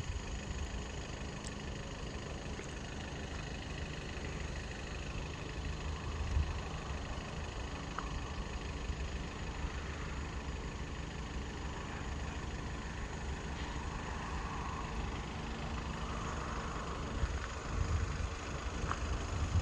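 Road vehicle engine idling, a steady low rumble.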